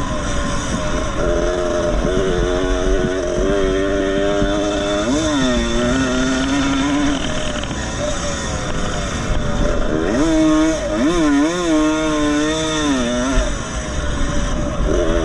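1975 MX125 125cc two-stroke motocross motorcycle engine running hard, its pitch dropping and climbing again about five seconds in and several times between ten and thirteen seconds in as the throttle is rolled off and back on.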